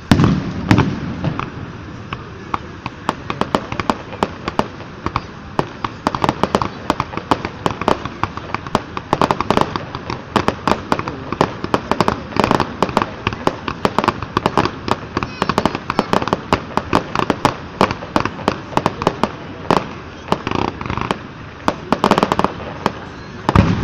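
Fireworks display: a dense run of rapid crackling pops throughout, with a heavy boom just after the start and another near the end.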